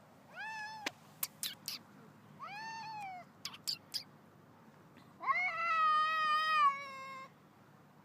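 Domestic cat making odd, drawn-out meowing calls: three of them, the first two short and arching up then down, the third about two seconds long and held steady near the end. Short sharp clicks come between the first two calls.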